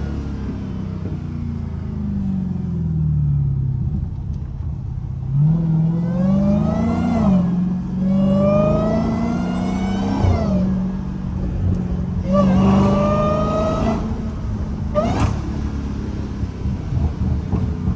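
Exhaust of a Dodge Challenger Hellcat's supercharged 6.2-litre Hemi V8 through a mid-muffler-delete exhaust. The engine drops in pitch as the car coasts, then revs up through several gears, the pitch rising and breaking at each shift. There is one sharp crack late on.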